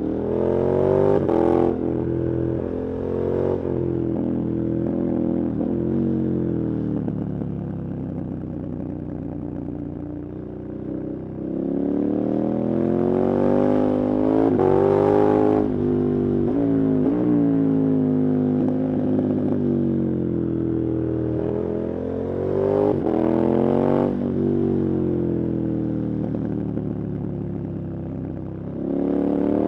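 KTM 1290 Super Adventure's V-twin engine under hard riding: the revs climb and drop again and again as the bike accelerates and slows, with sharp breaks in pitch at the shifts. The strongest pulls come about halfway through and again near the end.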